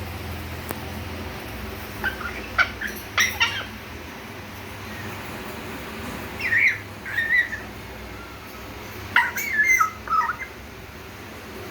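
Young African grey parrot making short, wavering whistles and chirps in three little bursts, a baby bird practising whistling.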